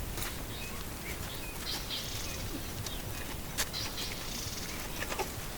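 Outdoor background: a steady low hiss with faint short bird-like chirps and a few sharp clicks, no hyena call yet.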